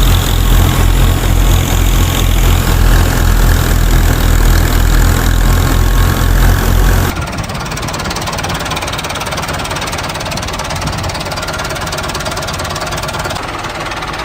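A small engine running with a rapid, heavy low beat. About halfway through it cuts abruptly to a lighter, more hissing mechanical running sound.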